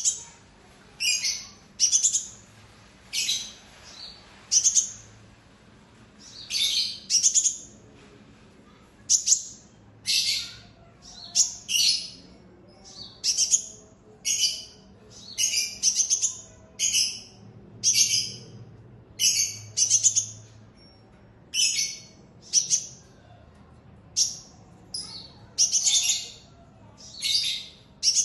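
Sunbird giving loud, high chirps in short bursts of rapid notes, one burst every second or two, repeated over and over.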